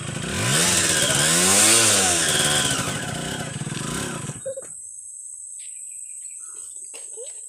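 Yamaha two-stroke enduro motorcycle engine revving once, its pitch rising over a second or so and falling again, then cutting out about four seconds in. Afterwards a steady high insect buzz and a few light knocks.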